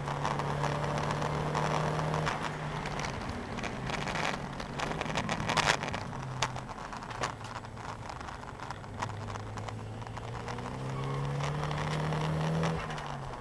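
Nissan 200SX's turbocharged four-cylinder engine heard from inside the cabin on track. It runs at high steady revs, drops in pitch a couple of seconds in, climbs steadily through the last few seconds, then falls sharply near the end. Sharp clicks and rattles come through all along.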